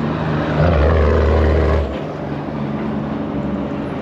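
A large motor vehicle's engine running loudly close by, a low steady drone that starts about half a second in and drops away sharply near the two-second mark, over the constant noise of city traffic.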